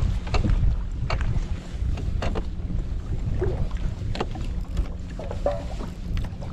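Wind rumbling on the microphone in a fishing boat on the water, with scattered small knocks and clicks from the boat and gear.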